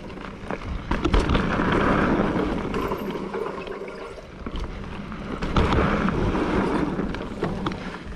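Mountain bike riding down a dirt trail: wind rushing over the microphone and tyres rolling on dirt, with clicks and knocks from the bike. The rush swells louder twice.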